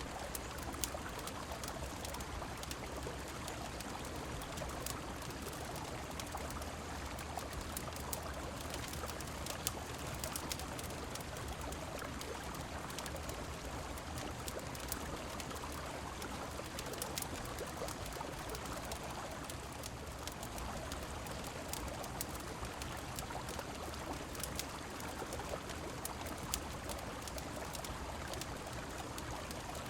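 Steady rushing of a flowing river mixed with rain, with a fireplace crackling in scattered sharp pops throughout.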